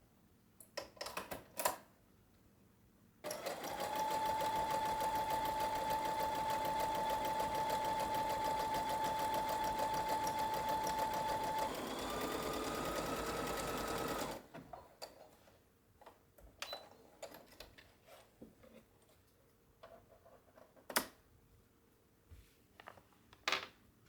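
Electric sewing machine stitching for about eleven seconds, a fast needle chatter over a steady motor whine that jumps higher shortly before it stops. Small clicks of handling come before and after.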